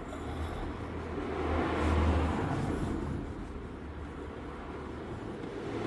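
A road vehicle passing by, a low rumble that swells to its loudest about two seconds in and then fades away.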